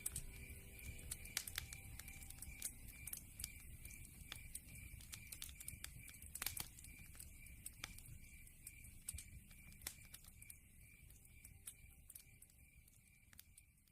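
Log fire crackling, with frequent sharp pops over a low rumble, fading out near the end.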